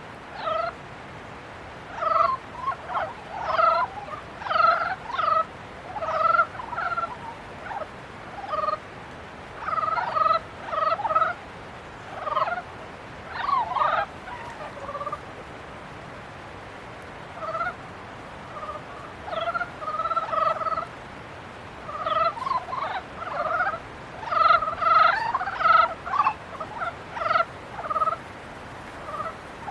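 A chorus of frogs croaking in short, rapid runs of calls with brief pauses between them. These are breeding calls of the mating season.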